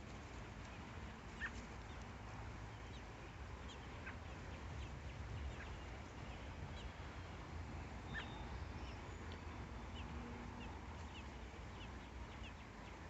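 Outdoor backyard ambience: a steady low background rumble with faint, short bird chirps scattered through it, clearest about one and a half, four and eight seconds in.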